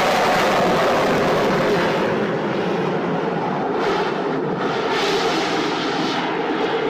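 Harrier jump jet's engine running at high thrust for a vertical lift-off: a loud, steady rush of jet noise that wavers with a few brief surges from about the middle on.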